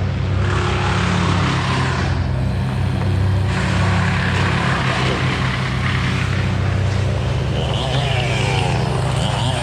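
An engine running steadily, its pitch rising and falling several times near the end as it is revved.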